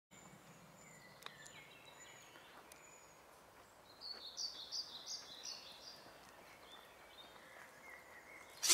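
Songbirds calling: faint scattered chirps and short whistles, then a brighter run of about six quick notes about four seconds in.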